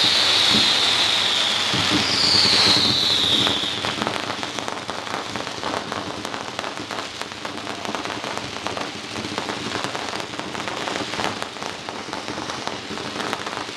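Fireworks display: two whistling shells, each a high whistle falling in pitch, in the first few seconds, then a dense, steady crackling of many small bursts.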